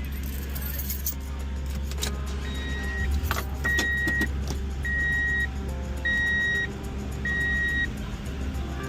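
Vehicle engine running steadily while an electronic warning tone beeps five times, about once a second. A few clicks and clatters, like keys being handled, come before the beeps.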